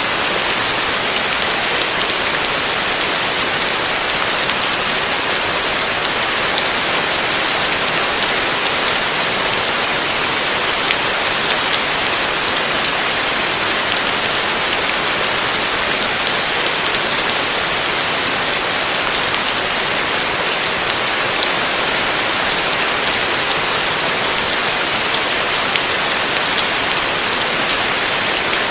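Heavy rain falling steadily on a roof: an even, unbroken hiss of countless drops.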